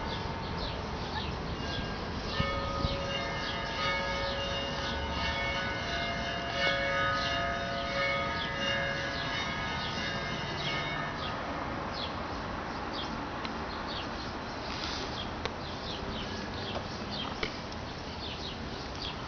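Bells ringing, several tones sounding together for about nine seconds and then fading, over frequent short high chirps of birds.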